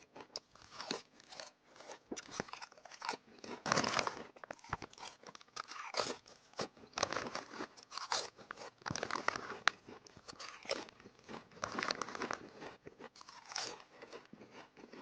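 Potato chips being bitten and chewed close to the microphone: a dense run of crisp, irregular crunches.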